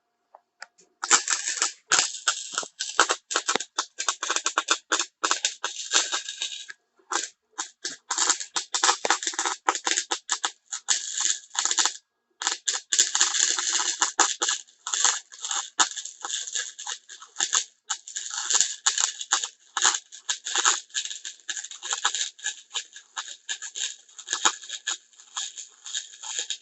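Flux-core wire-feed welding arc with 0.030 flux-core wire, crackling and sputtering unevenly. The arc starts about a second in, stops briefly twice, and runs on almost to the end. The weld it lays is a poor one.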